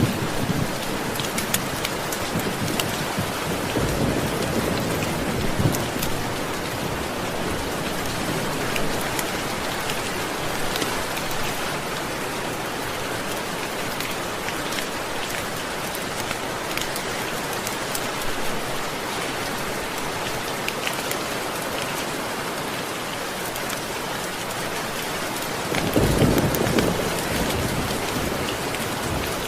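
Steady rain falling, an even hiss with scattered sharp ticks of drops. Low rumbles of thunder swell briefly about four seconds in and again near the end.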